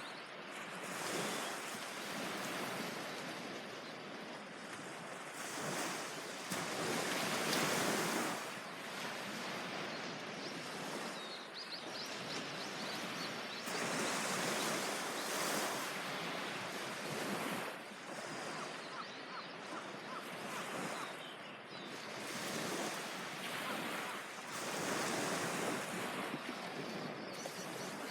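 Sea waves breaking on a beach, the surf swelling and fading in slow surges every several seconds.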